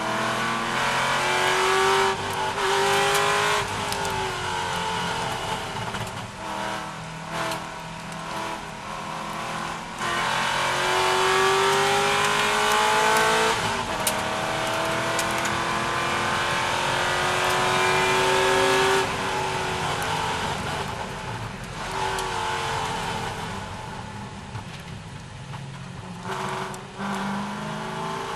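C6 Corvette V8 racing at full throttle, its note climbing in pitch through several upshifts. In the last third it eases off, with brief dips as the driver lifts.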